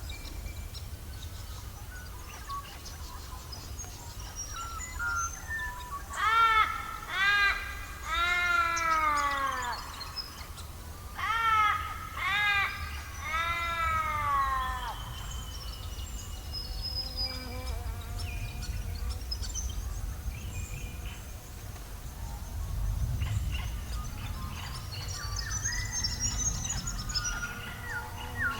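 Bird calls: two series of three long, arching calls, each falling at the end, with short high chirps from smaller birds scattered around them over a steady low rumble.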